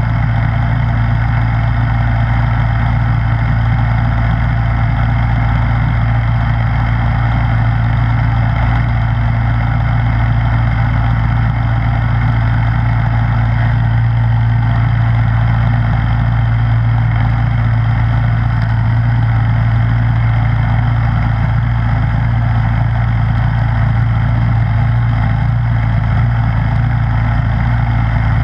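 Snowblower engine running steadily at a constant speed, a strong low hum that does not change.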